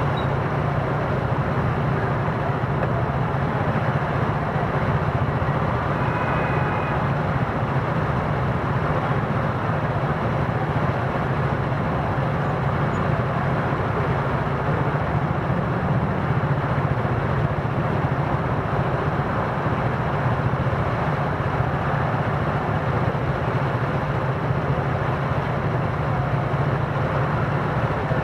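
Steady wind and road noise from riding a Gogoro 2 electric scooter, with a brief faint high tone about six seconds in.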